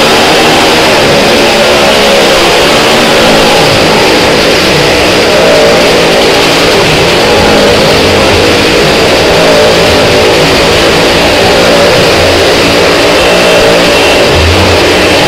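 Small car's engine running hard and loud as the car circles the vertical wooden wall of a well-of-death pit, its pitch rising and falling slightly with the throttle.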